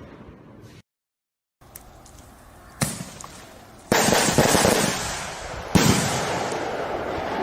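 Fireworks going off: a brief dropout to dead silence near the start, then a single sharp bang. Loud crackling explodes about four seconds in, and another bang near six seconds trails off into a slowly fading rumble.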